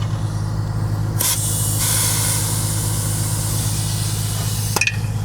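A steady hiss of escaping gas starts about a second in and lasts about three and a half seconds, with a Kenworth W900's diesel engine idling underneath throughout.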